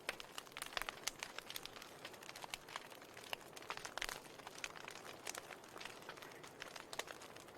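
Wood fire in a fireplace crackling, with irregular sharp pops and snaps over a faint hiss.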